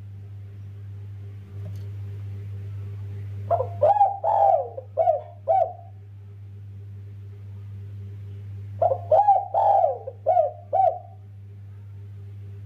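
A caged derkuku (spotted dove) cooing in two phrases, each a quick run of about five coos, the second coming about five seconds after the first. A steady low hum runs underneath.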